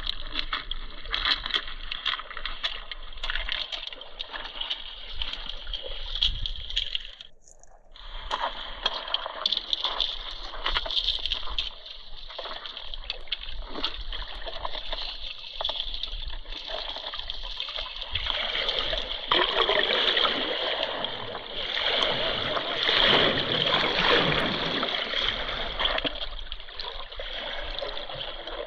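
River water splashing and rushing around a raft, with many small splatters; the sound briefly drops away about seven seconds in and grows louder and fuller about two-thirds of the way through.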